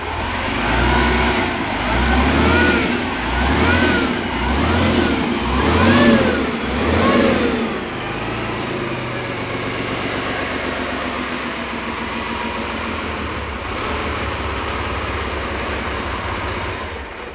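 Freshly overhauled Deutz F12L413 air-cooled V12 diesel engine revved in about six quick blips, each rising and falling in pitch, then settling into a steady run.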